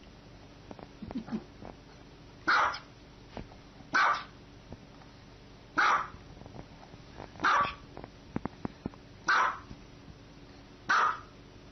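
Small dog barking six times, single short barks about every one and a half to two seconds.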